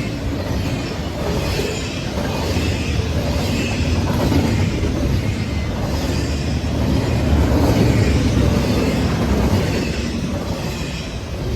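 Norfolk Southern train passing: a steady rumble and rail noise that grows louder about two-thirds of the way through, then eases off near the end.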